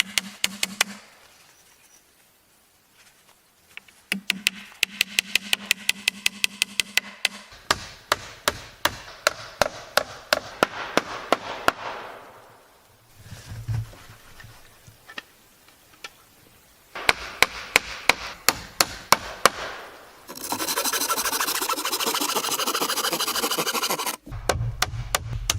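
Tool work on pallet wood: bursts of rapid clicking, several clicks a second, some over a low motor-like tone. Near the end comes a few seconds of steady rushing noise, then a low hum.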